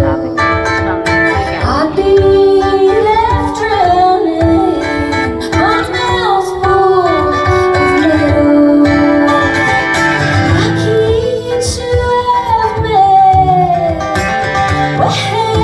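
Live music: a woman singing a hopeful pop-folk song, accompanied by guitar.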